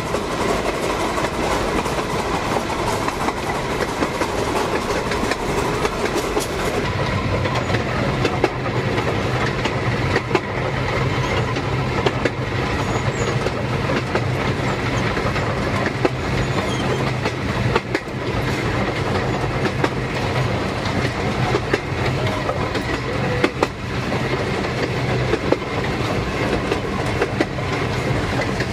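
Narrow-gauge steam train running along the track, heard from on board: a steady rumble with scattered sharp clicks of the wheels over the rails. About seven seconds in, a low steady hum joins in and carries on until shortly before the end.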